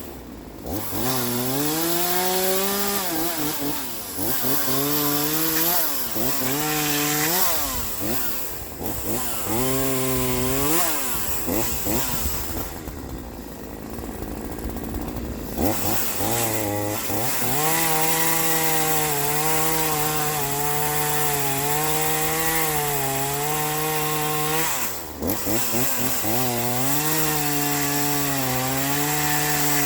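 Troy-Bilt TB4218 42cc two-stroke chainsaw cutting wood at full throttle. The engine pitch sags under load and climbs again in repeated passes, easing off briefly a few times and for a longer spell near the middle.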